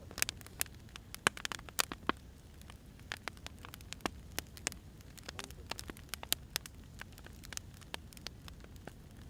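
Wood fire crackling: logs burning with irregular sharp pops and snaps over a low, steady hiss.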